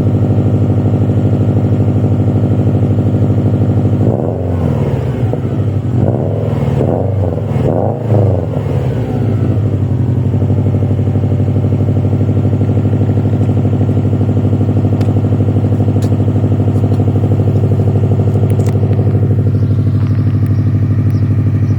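2019 Subaru WRX STI's turbocharged flat-four boxer engine, heard through an Invidia R400 exhaust with the stock downpipe, idling steadily after a cold start. About four seconds in it is revved in several quick blips over some five seconds, then settles back to a steady idle.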